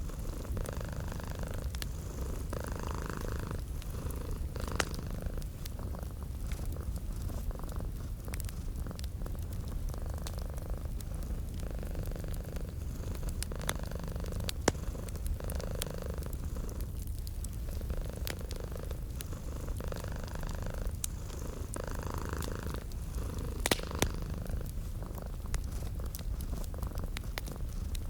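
Domestic cat purring steadily, swelling and easing with each breath every couple of seconds, over a wood fire crackling with scattered sharp pops, the loudest two a little before the end.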